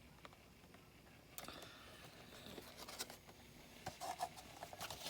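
Faint handling noises of a diecast toy truck model and its packaging: scattered small clicks, scratches and rustles, starting about a second and a half in and getting busier toward the end.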